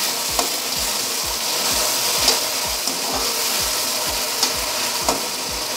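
Chopped tomatoes and onions sizzling in hot oil in a kadhai, stirred with a slotted spatula that scrapes and clicks against the pan now and then.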